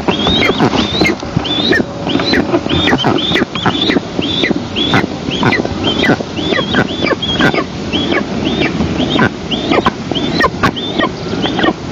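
Eastern imperial eagles calling at the nest: a rapid, unbroken series of short, high-pitched, down-slurred calls, about two or three a second, over steady background noise.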